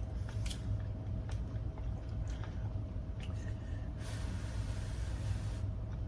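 A person chewing a mouthful of food, with small wet clicks and a breathy hiss about four seconds in, over a steady low hum.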